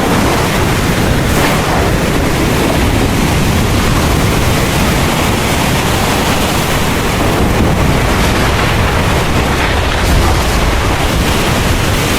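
Heavy rain falling steadily as a dense hiss, with a deep low rumble underneath.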